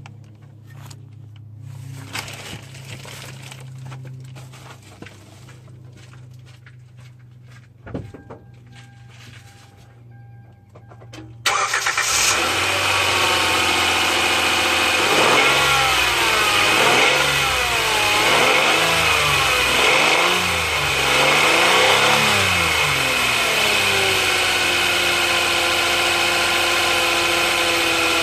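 2010 Hyundai Santa Fe engine: a faint low hum and a click, then about eleven seconds in the engine starts and runs loudly with a whine. The pitch rises and falls about five times before settling into a steady whine. This is the unexplained whining noise the owner is asking about.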